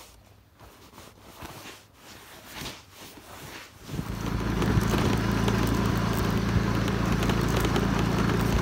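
Yamaha motorcycle engine starting about halfway through and then idling steadily. Before it starts there are only faint handling sounds and a few small knocks.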